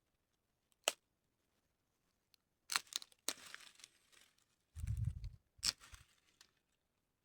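Scattered crinkling and tearing sounds, like something dry or papery being handled, in short separate bursts with a dull low thud about five seconds in.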